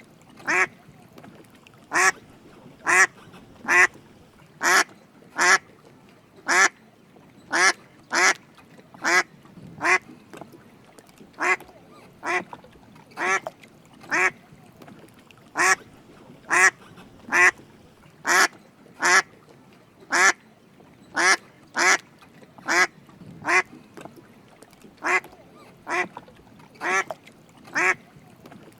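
Drake mallard ducks quacking: short calls repeated roughly once a second, unevenly spaced.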